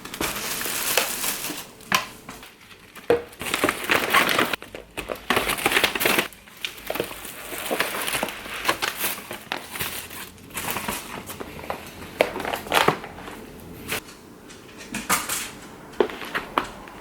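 Irregular crinkling and rustling, broken by scattered sharp clicks and knocks, the sound of something being handled at close range.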